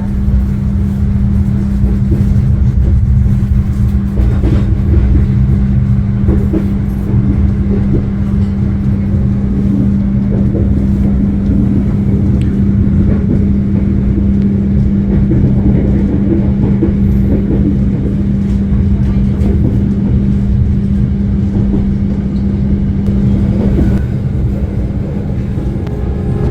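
Passenger train running, heard from inside the carriage: a continuous low rumble with a steady hum that stops near the end.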